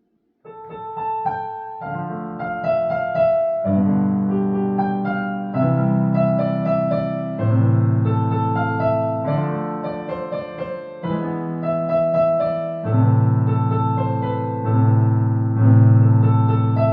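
Solo piano playing a slow melody over low sustained chords that change every couple of seconds, starting about half a second in.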